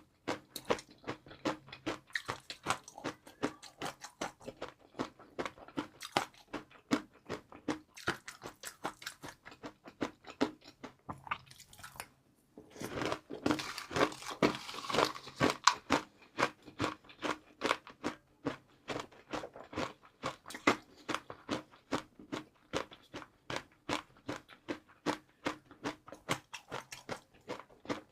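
Close-miked chewing of crunchy fried noodles: a steady run of crisp crunches, a few each second. After a brief pause about halfway, a fresh mouthful brings a denser, louder stretch of crunching.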